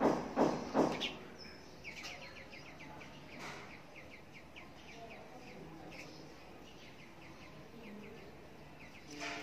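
Three short knocks in the first second, then a bird chirping over and over, a couple of short chirps a second, over faint background noise.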